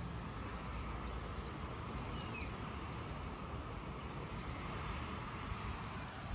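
Steady low background noise, with a few faint, short high chirps in the first two and a half seconds.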